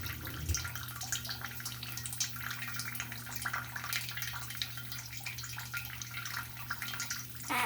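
Shower or tap water spattering and dripping, with many small irregular splashes and a louder splash near the end, over a steady low hum.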